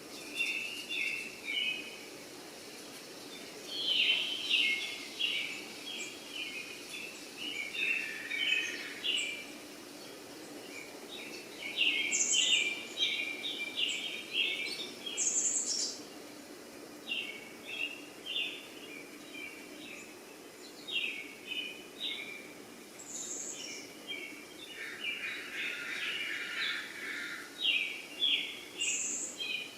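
Small birds chirping in quick clusters of short notes, again and again, over a faint steady low hum.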